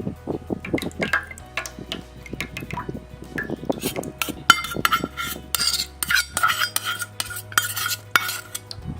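A metal spoon stirring and scraping in a metal vessel, with quick irregular clinks and scrapes that get harsher in the second half.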